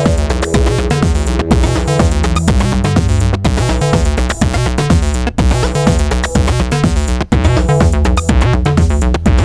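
Eurorack modular synthesizer music: a sequenced acid-style synth line from analog oscillators with filtered bass notes over a steady electronic drum pattern, with chopped granular sample textures.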